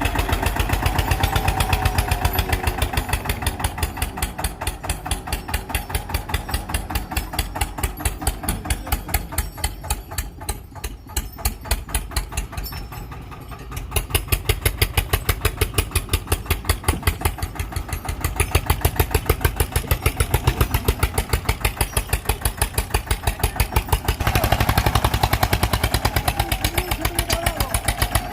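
Diesel tractor engine chugging with a rapid, even knocking beat. It eases off about halfway through and picks up again soon after.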